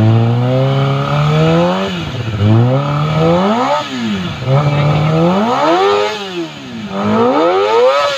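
Kawasaki ZX25R's 250 cc inline-four, on an aftermarket exhaust, revved four times in a row while standing still: each time the pitch climbs steeply, then drops back toward idle. The exhaust note is mellow, not harsh.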